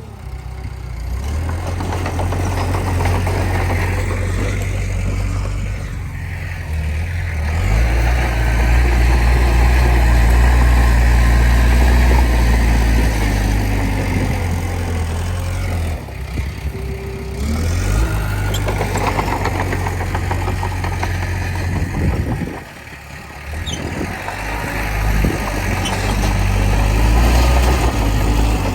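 Diesel engine of a Komatsu D20P bulldozer working, its revs rising and easing off several times as it pushes soil, with a few knocks in the later part.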